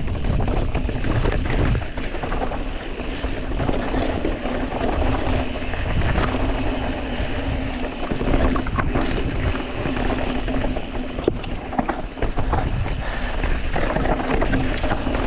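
Wind buffeting an action camera's microphone on a fast mountain bike descent, with the tyres rolling over dirt and rock. A few sharp knocks from the bike come near the end.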